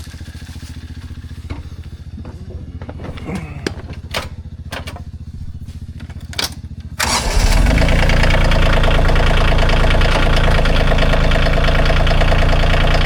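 A vehicle engine idling, with a few knocks and clicks over it. About seven seconds in it is suddenly throttled up and runs loud and steady.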